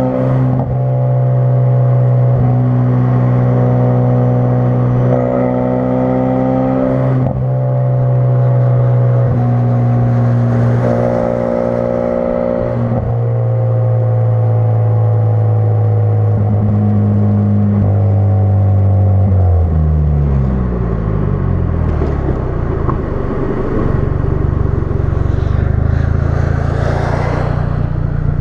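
2016 Ford Focus RS's turbocharged 2.3-litre four-cylinder running through a custom-fabricated exhaust while driving: the engine note holds fairly level with short breaks every few seconds, like gear changes. After about twenty seconds the pitch falls as the car slows, settling into a low drone.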